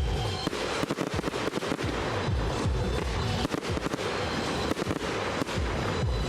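Fireworks going off in quick succession: a dense run of bangs, crackles and low booms, with music playing underneath.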